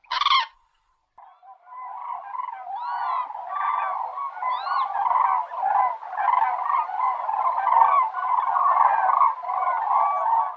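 A flock of common cranes calling, many loud trumpeting calls overlapping. A short sharp sound comes right at the start, before the calls begin about a second in.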